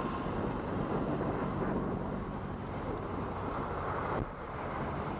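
Wind buffeting the microphone over a running engine, with a sudden drop in level about four seconds in.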